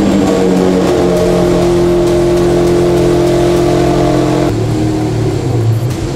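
Lamborghini Aventador Ultimae's 6.5-litre V12 running through an aftermarket exhaust. It holds a steady raised idle, then about four and a half seconds in drops to a lower, deeper idle.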